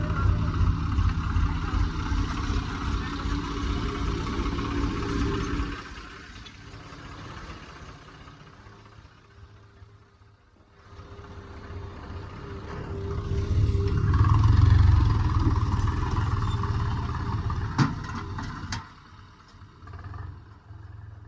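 Diesel engine of heavy machinery running loud, then falling away to a quiet stretch about six seconds in. An engine builds up again to a loud run around the middle and tails off, with one sharp knock near the end.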